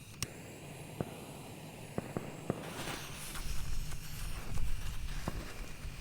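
Footsteps walking outdoors, a sharp step every half second or so. A rush of hiss comes about halfway through, followed by a low rumble, with a faint steady high tone behind it all.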